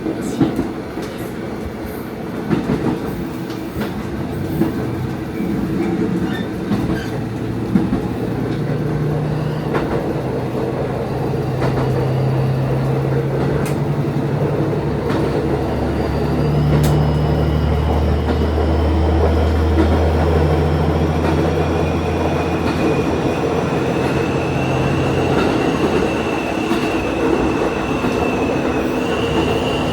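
Diesel railcar running along the line, heard from the cab: a steady engine note under the rolling noise, with clicks of the wheels over rail joints in the first few seconds. From about twenty seconds in, a thin high squeal from the wheels rises slowly.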